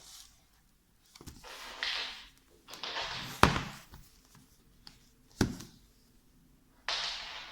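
Things being handled: three hard thunks, the loudest about three and a half seconds in, among brushing and sliding sounds.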